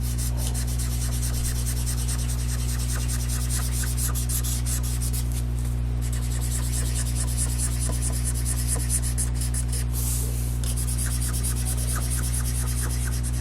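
Felt-tip marker scribbling on paper in quick back-and-forth strokes, colouring in a paper bird, over a steady low electrical hum.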